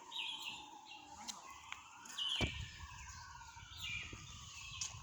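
Birds chirping, short calls repeated about once a second over slow falling whistles. A low rumble comes in about halfway.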